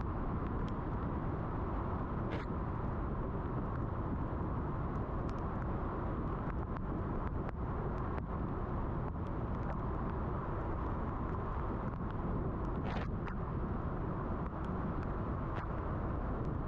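A car driving in the rain: steady road and tyre noise with a low hum, with scattered faint ticks and two brief hisses, one a couple of seconds in and one near the end.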